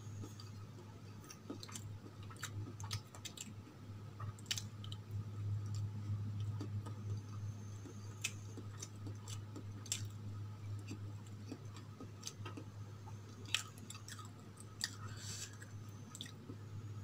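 Close-miked chewing of soft steamed idli with chutney: irregular wet mouth clicks and smacks over a steady low hum.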